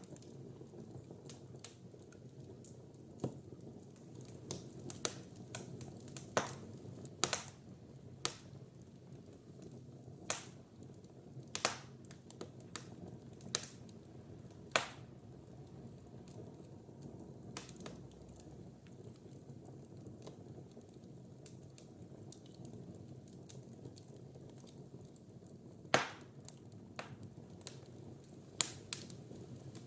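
Fire in a fireplace burning with a steady low rush and irregular sharp crackles and pops, a few of them much louder than the rest, the loudest about 26 seconds in.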